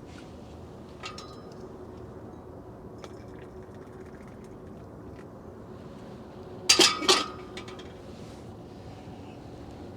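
Glassware and dishes clinking: a light clink about a second in, then a louder cluster of two or three clinks about seven seconds in, each ringing briefly.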